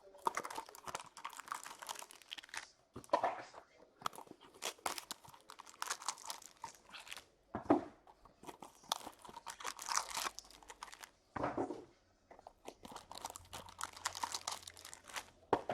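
Plastic wrapping and card packs crinkling and tearing as trading card boxes and packs are opened by hand, in repeated irregular bursts with short pauses.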